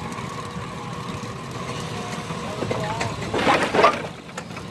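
A 1926 Keck Gonnerman steam traction engine running a belt-driven sawmill, a steady low rumble with a faint steady whine above it. A louder, harsh burst of noise comes about three and a half seconds in, and faint voices can be heard.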